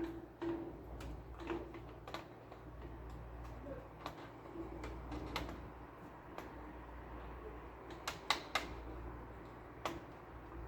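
Irregular clicks and light taps of plastic printer parts and small tools being handled, with a few sharper clicks about eight seconds in.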